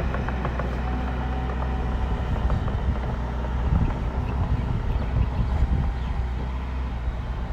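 Bulldozer's diesel engine running steadily, with a few light knocks scattered through.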